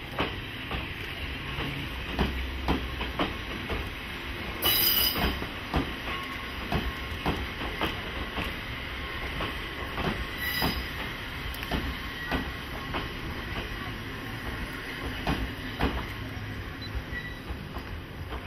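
A Nagano Electric Railway 2000 series electric train passing slowly, its wheels clacking over the rail joints over a steady running rumble. Brief high-pitched wheel squeals come about five and about ten seconds in.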